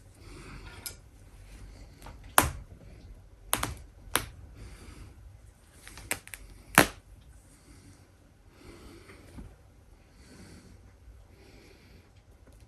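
About six sharp clicks or snaps in the first seven seconds, two of them much louder than the rest, with soft rustling between them.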